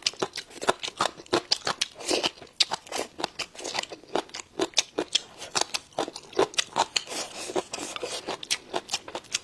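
Crisp radish strips being chewed close to the microphone: a quick, irregular run of crunches, about three or four a second.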